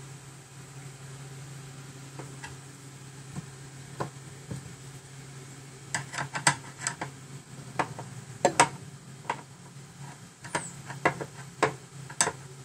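Screwdriver turning the screws of a kitchen cabinet door hinge: a quiet stretch, then a run of sharp metallic clicks from about halfway in, over a steady low hum.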